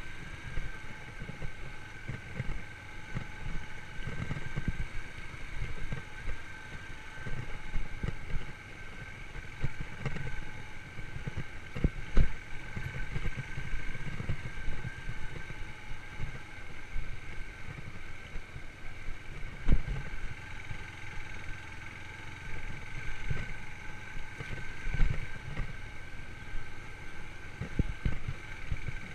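Yamaha YBR125 motorcycle's single-cylinder four-stroke engine running at steady revs under way, over an uneven low rumble. Two sharp knocks stand out, one about 12 seconds in and another near 20 seconds.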